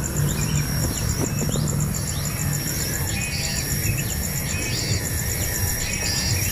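Birds chirping: short sweeping calls repeated every half second or so, over a steady, fast-pulsing insect trill.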